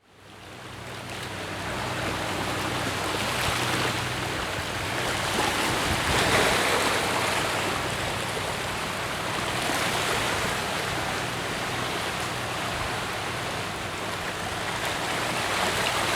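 Rushing water noise, swelling and easing every few seconds like waves, with a faint low hum underneath. It fades in from silence at the start.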